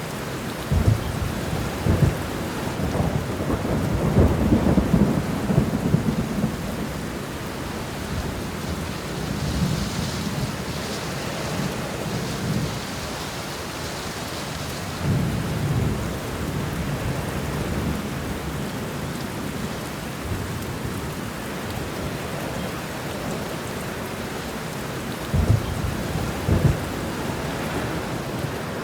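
Steady heavy rain with rolling thunder: rumbles swell and crack near the start, again about halfway through, and once more with two sharp claps near the end.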